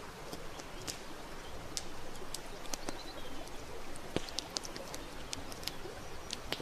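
Wood campfire crackling, with sharp irregular pops over a steady soft hiss. A faint bird call is heard about halfway through.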